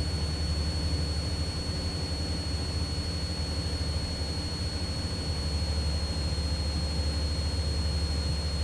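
Cessna 172's piston engine droning steadily at cruise power, heard from inside the cabin, with a thin steady high whine over it.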